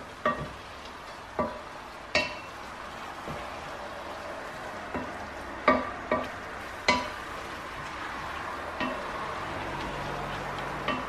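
Minced meat and diced vegetables sizzling in a pot on the hob while a wooden spoon stirs them, with about ten sharp knocks of the spoon against the pot at irregular intervals.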